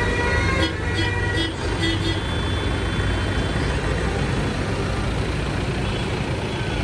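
Tractor engines running with a steady low rumble, with a few short high tones in the first two seconds.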